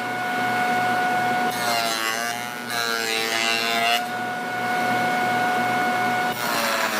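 Electric woodworking machine running with a steady whine, its pitch dropping and wavering with added noise while it cuts wood, from about a second and a half in to about four seconds in and again near the end.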